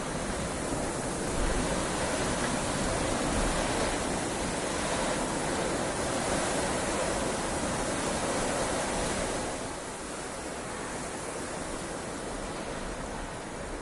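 Heavy rain falling steadily, a dense even hiss that eases slightly about ten seconds in.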